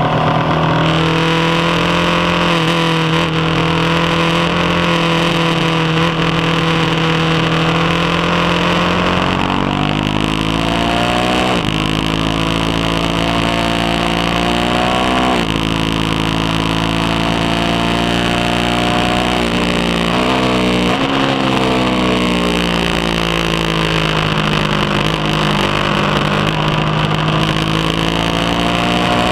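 BMW HP2 Sport's boxer-twin engine at speed on track, with wind rushing over the bike. It holds steady revs, then climbs in pitch and drops sharply twice as it shifts up, falls away around twenty seconds in as the rider slows, and pulls up in pitch again near the end.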